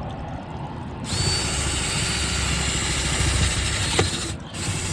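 Power drill boring into a plastic trash can. The drill starts abruptly about a second in, runs steadily, stops briefly near the end and starts again.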